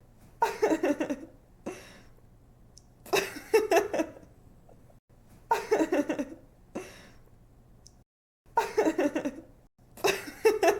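A woman laughing in repeated short bursts of giggling, about five within ten seconds, each burst a run of quick pulses falling in pitch.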